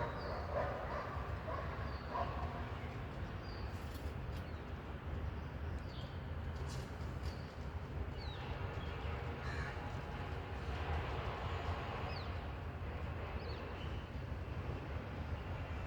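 Birds calling intermittently with short, high chirps over a steady low rumble, with a few light clicks.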